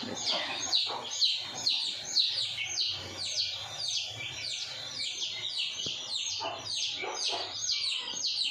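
Small birds chirping: a rapid, continuous run of short, high, falling chirps, several a second.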